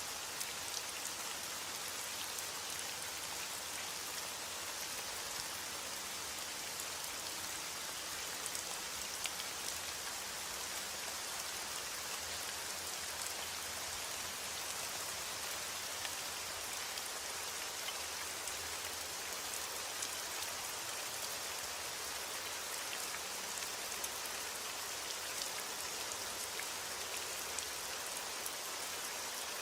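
Steady rain falling on a surface, a constant hiss with scattered drop ticks and no thunder.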